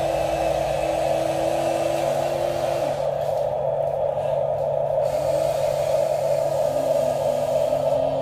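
Small electric motors and gearboxes of radio-controlled construction models running, with a steady whine and lower tones that shift up and down in steps as the controls change.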